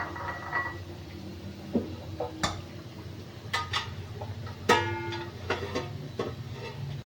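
Metal utensils and cookware clinking and knocking a few times over a low steady hum, with one clink about two-thirds of the way through ringing on briefly like struck metal.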